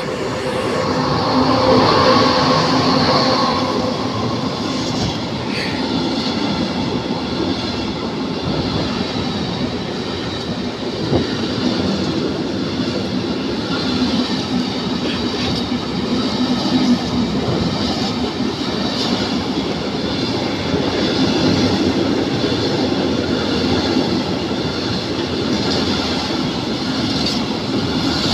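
An electric locomotive hauling a container freight train passes close by, with a steady tone from the locomotive loudest in the first few seconds. A long string of loaded container flat wagons then rolls past with continuous wheel-on-rail noise.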